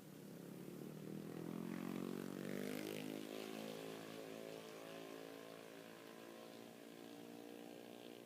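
An engine running steadily, growing louder for a moment around two to three seconds in and then settling back.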